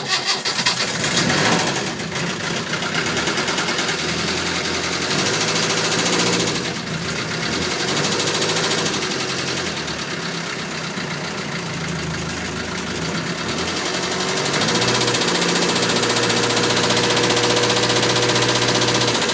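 Land Rover Series 3's 2.25-litre diesel engine cranking, catching and running after its glow plugs have warmed it, rough for the first couple of seconds, then settling, with the revs raised about two thirds of the way in. It carries a knocking noise that the owner suspects comes from retarded injection timing or the fuel pump rather than the bearings.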